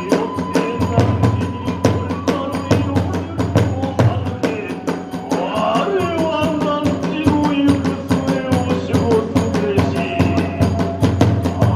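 Hiroshima kagura hayashi: a taiko drum and small hand cymbals playing a fast, dense rhythm, with a gliding melody line over it from about halfway through.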